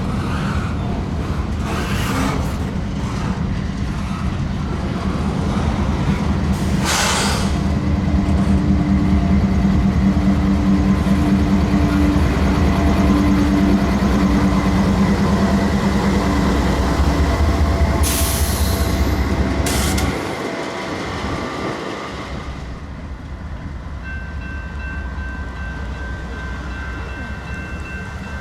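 Train passing close by: a heavy, loud rumble of locomotive engines and rolling cars with steady low engine tones, dropping off about twenty seconds in. Thin high steady tones sound near the end.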